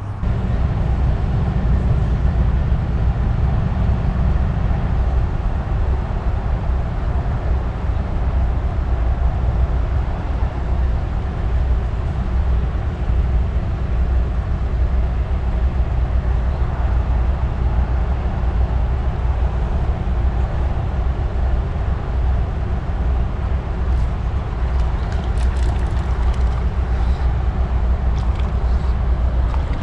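Wind buffeting the microphone, a steady low rumble, over the rush of running creek water. A few faint clicks near the end.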